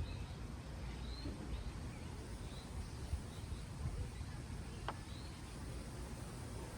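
Small birds chirping, short high chirps every second or so, over a steady low rumble of wind. A single sharp click about five seconds in.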